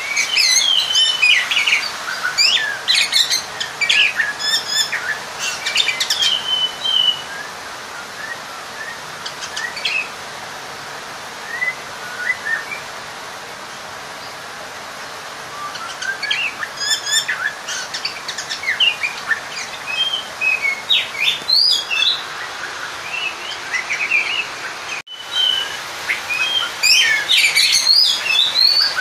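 Oriental magpie-robin (kacer) singing a fast, varied song of whistles and chirps, dense at first, sparser in the middle, then dense and loud again near the end. This is a rival-challenge song, typically used to provoke other male magpie-robins.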